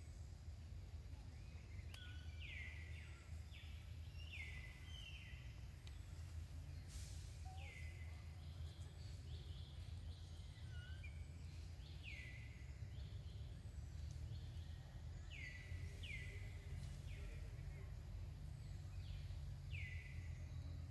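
A bird calling short notes that slide quickly down and level off, singly or in pairs every few seconds. A steady low rumble runs underneath.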